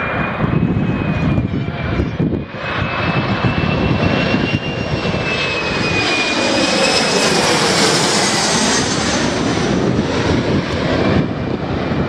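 Airliner passing close, its engines giving a steady high whine over a broad rumble that is loudest around two-thirds of the way through and then eases. Gusts of wind buffet the microphone.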